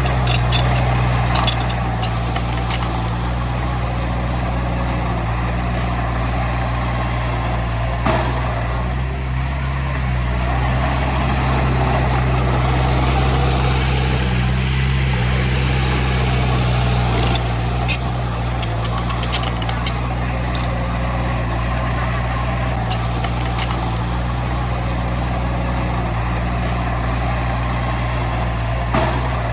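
Heavy diesel construction machinery running steadily at a constant engine speed, with scattered short metallic knocks and clanks.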